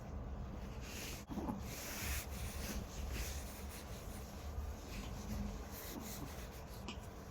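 Plastic bag rustling and crinkling in irregular bursts as a poodle plays with it.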